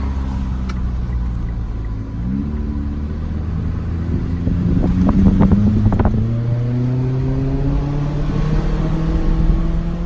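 Mitsubishi Lancer four-cylinder engine with the muffler and resonator deleted, running under way. Its pitch rises quickly about two seconds in, then climbs slowly through the second half as the car accelerates. A few sharp clicks come near the middle.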